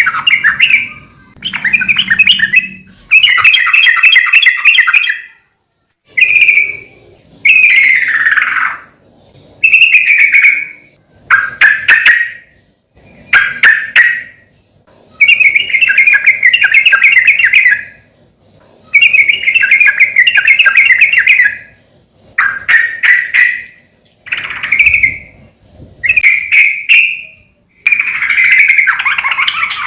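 Yellow-vented bulbul (trucukan) singing loudly: a run of bubbly, chattering song phrases, each one to three seconds long, with short pauses between them and some phrases sliding down in pitch.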